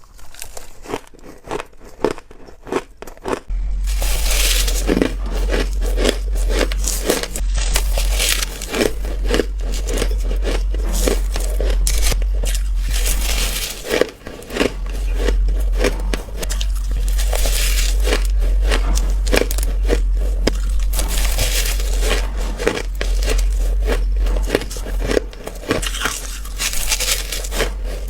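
Close-miked biting and chewing of ice: a few separate crisp crunches, then from about three seconds in a dense, unbroken crunching and crackling. A low hum runs under the crunching.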